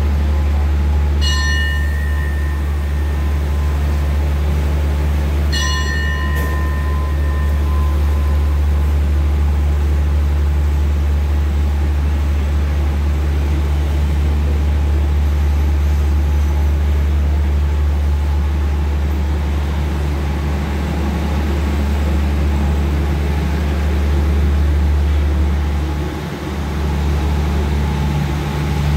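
Thai special express passenger train standing at, then slowly moving along, the platform, with a steady low engine hum. A bell rings with a short strike twice, about one and five seconds in.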